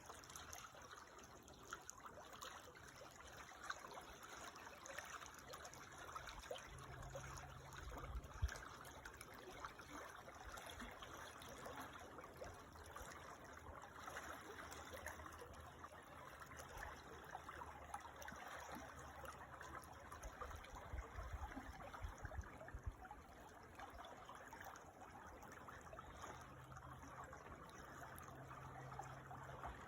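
Small creek trickling and babbling faintly and steadily, with a couple of low rumbles, about a quarter and about two-thirds of the way through.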